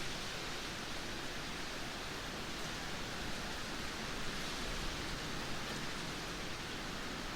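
Heavy rain pouring steadily: a dense, even hiss with no breaks.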